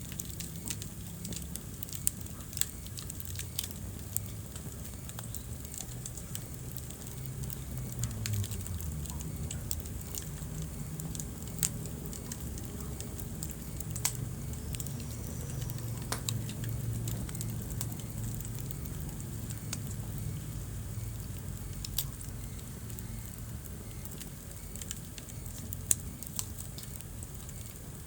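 Wood fire burning in a fireplace, crackling with irregular sharp pops over a low steady rumble of flames. A few pops stand out louder, the loudest shortly before the end.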